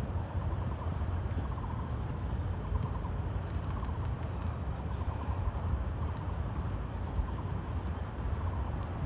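Steady low road-traffic rumble. Over it, short runs of rapid, hollow, low notes repeat about once a second: the trilling call of a Taiwan barbet.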